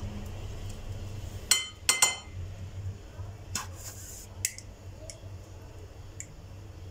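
A few sharp clinks of hard objects knocking together, the two loudest about one and a half and two seconds in with a short ringing tone, then several fainter ones, over a steady low hum.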